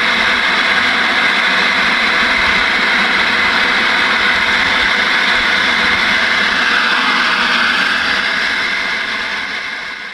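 Loud, steady radio static hiss from a receiver with the signal gone, with faint steady tones in it. It fades away near the end and then cuts off.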